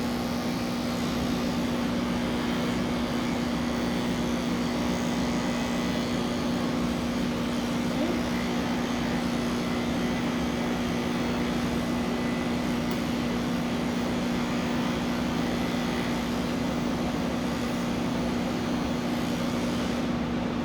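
Electric pet clippers running with a steady, unbroken hum.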